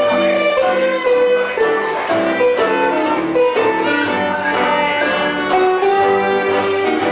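A live gypsy-style band playing: a violin carries the melody over a rhythmic chordal accompaniment.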